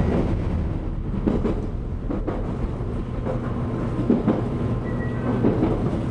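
JR Kyushu 813 series electric multiple unit running at speed, heard from inside the lead car: a steady rumble of wheels and running gear, with irregular knocks and clicks of the wheels over the track.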